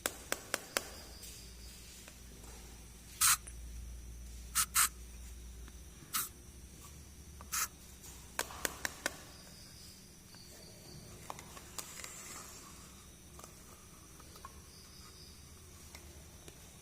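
Small plastic toy pieces and packaging handled up close: irregular sharp clicks and taps, with a few short scratchy rustles.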